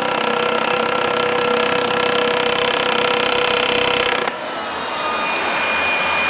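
Hilti hammer drill running steadily while drilling, then stopping abruptly about four seconds in. A quieter steady machine noise remains after it stops.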